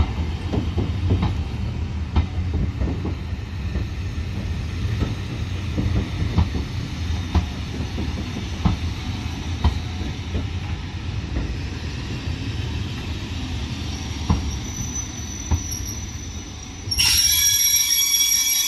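Green BR Mark 1 passenger coaches rolling past slowly: a low rumble with the clack of wheels over rail joints about once a second, the clacks spreading further apart as the train slows. Near the end a loud, high-pitched wheel squeal sets in.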